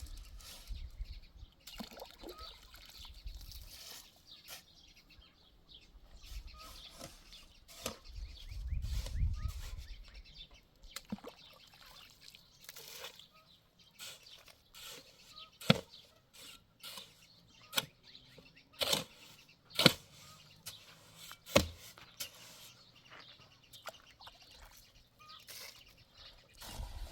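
Irregular sharp knocks and clicks, several loud ones about two-thirds of the way through, with a low rumble about a third of the way in.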